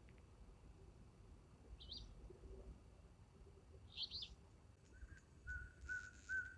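Faint bird calls. A quick high chirp comes twice, then a run of short, lower whistled notes repeats about twice a second near the end.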